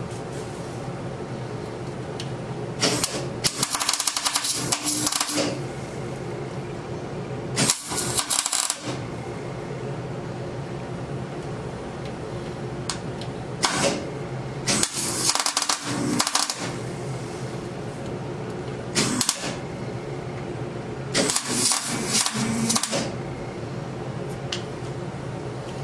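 A power tool rattling in repeated bursts of one to three seconds, six or so in all, over a steady machine hum.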